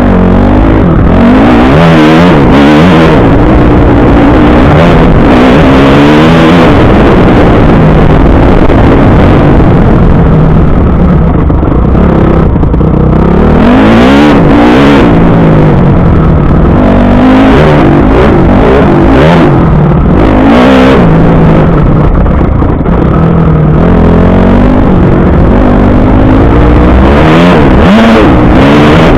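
Motocross bike engine ridden hard round a dirt track, its pitch rising and falling over and over as it revs up and backs off, loud throughout.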